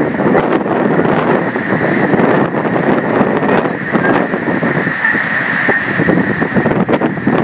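Strong wind blowing hard across a phone's microphone, loud and unbroken, rising and falling in gusts.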